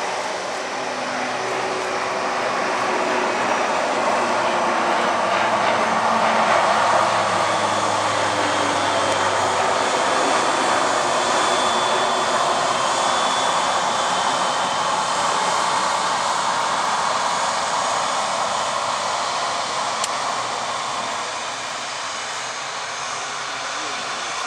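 Jet airliner's engines passing by in a long, steady rush that swells over the first several seconds, holds, and eases toward the end.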